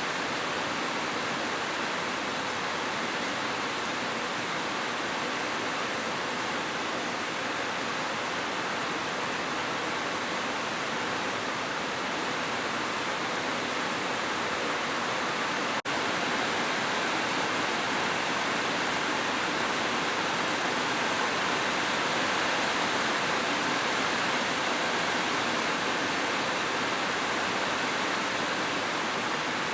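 Heavy rain falling in an even, steady hiss, with one momentary dropout about halfway through.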